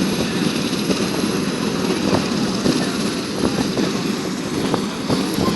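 Westland Sea King helicopter running, its main rotor giving a fast steady flutter over the noise of its twin turboshaft engines, with a thin steady high whine above.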